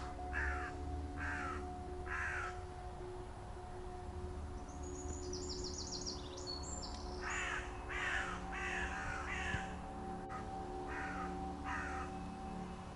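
A crow cawing in runs of harsh calls: about four over the first couple of seconds, then a longer run of five or six from about seven seconds in and two more near the end. A smaller bird gives a brief high trill between the runs, over a low steady hum.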